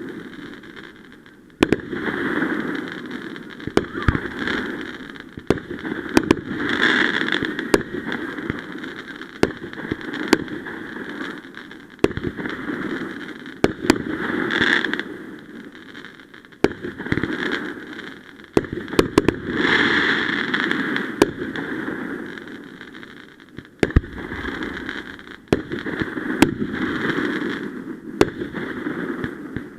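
Fireworks going off: a string of sharp bangs at irregular intervals, with rolling noise that swells and fades between them.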